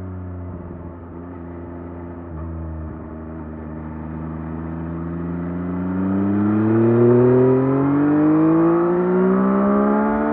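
Yamaha MT-09 SP's 890 cc inline three-cylinder engine through its stock exhaust, holding fairly steady revs for the first few seconds. It then pulls up through the revs as the bike accelerates, the pitch rising and the sound growing louder.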